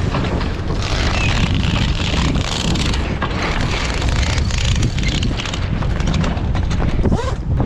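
Strong wind buffeting the microphone aboard a sailboat under way: a loud, steady rushing roar with heavy low rumble.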